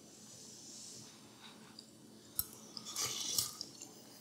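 A person quietly chewing a taste of beef and onion braise, with a sharp click about two and a half seconds in and a short run of soft mouth noises around three seconds.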